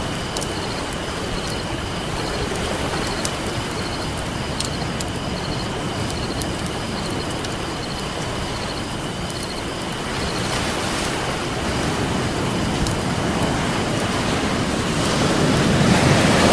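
Ocean waves washing on a beach as a steady rushing hiss, with sparse sharp crackles of a wood campfire; a wave surges louder near the end.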